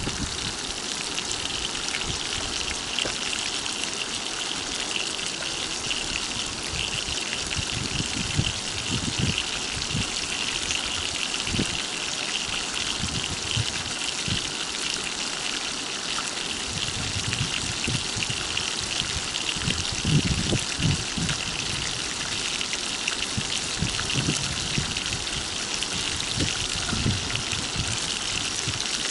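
Flour-coated rotan fish frying in oil in a pan: a steady crackling sizzle, with a few low thuds now and then.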